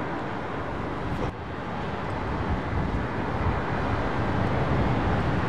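Strong wind rumbling on the microphone over the steady noise of an airliner's jet engines on approach. There is a short dip a little over a second in, then the sound slowly grows louder.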